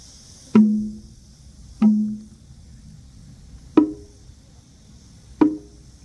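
Four slow, unevenly spaced strikes on a pitched percussion instrument in a drum-ensemble performance, each ringing briefly and fading. The first two are lower in pitch and the last two higher.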